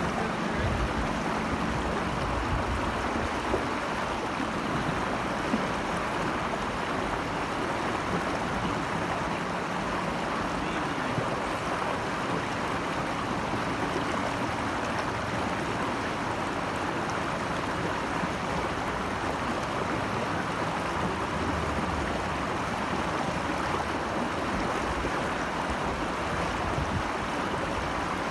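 Steady rushing of flowing water from a stream or small cascade, even and unbroken.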